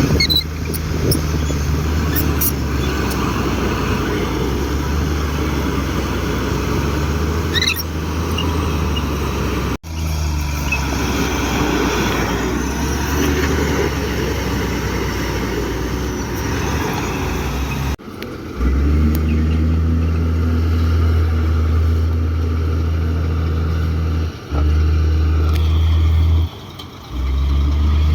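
Komatsu D58 bulldozer's diesel engine running steadily with a deep hum. The sound cuts off abruptly twice and has short dropouts near the end.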